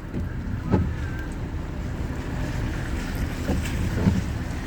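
Steady low rumble of road and engine noise inside a moving car's cabin, with a few faint soft knocks.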